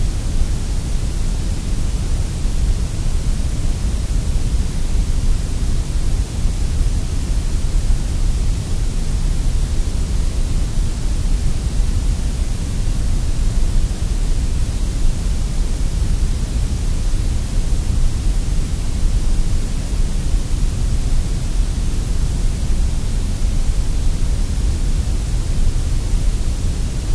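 Sandblast cabinet nozzle blasting abrasive grit onto pressed-steel toy parts: a loud, steady rushing hiss of compressed air and media, stripping paint and rust to bare metal.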